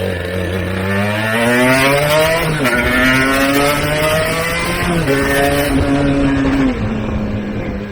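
Aprilia Tuono 125's single-cylinder two-stroke engine through a TYGA exhaust, accelerating hard through the gears: the pitch climbs, drops at two upshifts about two and a half and five seconds in, then settles to a steady lower note near the end.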